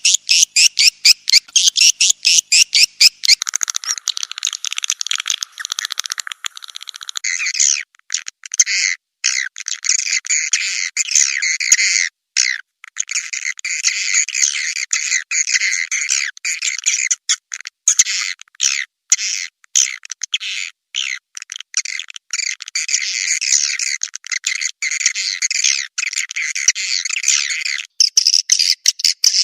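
Swiftlet lure sound of rapid, high chittering and twittering swiftlet calls. It opens with a fast train of short chirps, then runs as dense chatter with brief breaks.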